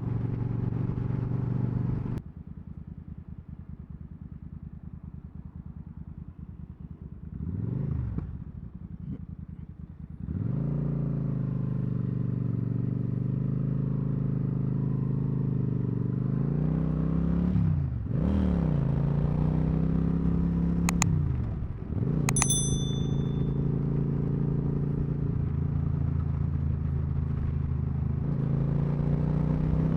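Suzuki Marauder motorcycle engine. It runs quieter for several seconds, with a short rev about eight seconds in. It then pulls harder, its pitch rising and dropping through several gear changes, and settles into a steady cruising drone. Two sharp clicks come about two-thirds of the way through, the second with a brief high ring.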